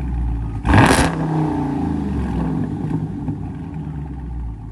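2021 Dodge Charger Scat Pack's 6.4-litre HEMI V8 with its mid mufflers deleted, running loud through the exhaust; one sharp, loud rev blast about a second in, then the pitch falls back as the revs drop.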